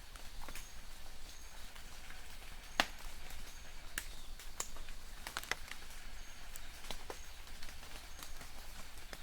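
Light rain in a forest: scattered drops tapping on leaves, the sharpest one a little under three seconds in. A distant bird repeats a short high chirp about once a second.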